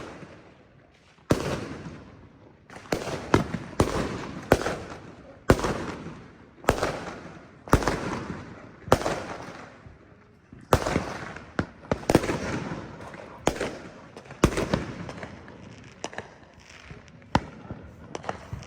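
Fireworks going off: a string of sharp, irregular bangs about once a second, each followed by an echoing tail that fades, with short lulls near the start and around ten seconds in.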